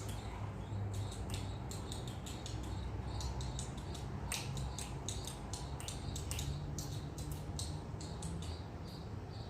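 Munia (emprit) giving many short, high-pitched chirps in quick, irregular succession, over a low steady hum.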